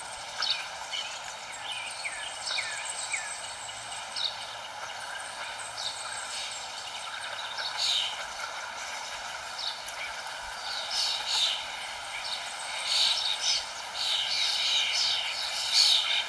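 Small birds chirping, with many short high calls and a few quick falling notes, growing busier in the second half. A steady background noise runs underneath.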